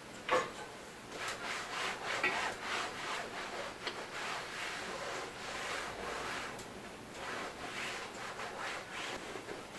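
A sharp knock, then irregular repeated rubbing strokes, like something being scrubbed or wiped against a surface.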